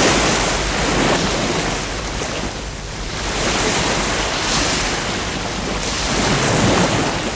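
Ocean surf breaking on a beach, a steady wash of noise that swells and eases as each wave comes in.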